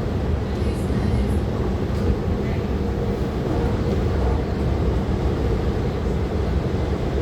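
MTR IKK-Train electric multiple unit running between stations: a steady low rumble of wheels on rail and running gear.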